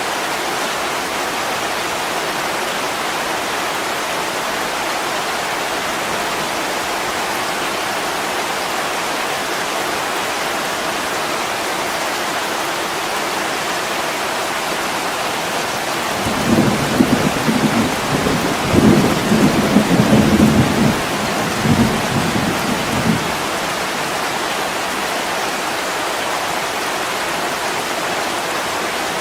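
Heavy rain falling steadily on window glass, with a low rolling rumble of thunder that swells about seventeen seconds in and dies away some six seconds later.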